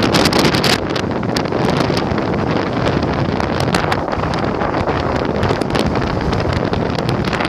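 Squally wind buffeting the microphone in a loud, unbroken rush with many short crackling gusts, strongest about the first second.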